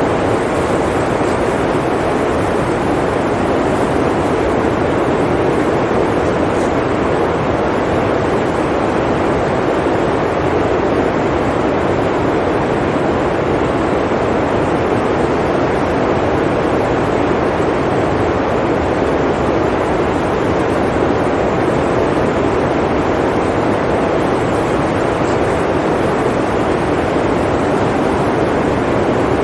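Blizzard wind blowing, a loud, even rushing noise that holds steady without gusts or breaks.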